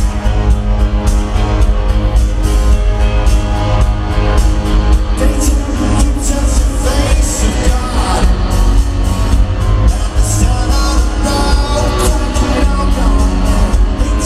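Live rock band playing loudly through a stadium PA, with heavy bass and drums, recorded from the crowd. A voice singing comes in about five seconds in.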